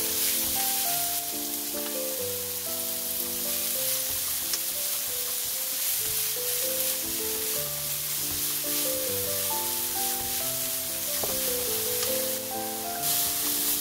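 Julienned cucumber sizzling in oil in a nonstick wok as it is stirred with chopsticks, a steady high hiss that swells a little near the end. Background music with a gentle melody plays over it.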